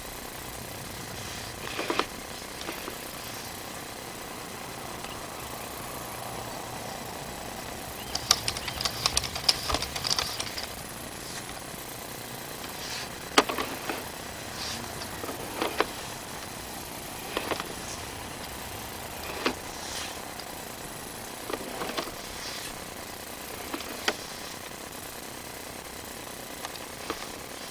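Scattered clicks, knocks and rattles over a steady hum, with a quick run of rattling clicks partway through, as a sewer inspection camera's push cable is worked back and forth in the drain pipe.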